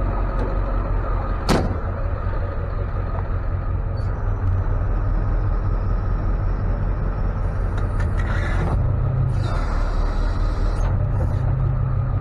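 Steady low drone of a Ford F-550 tow truck running, with road noise heard inside the cab. A sharp click comes about a second and a half in, and two brief hissing rushes come past the middle.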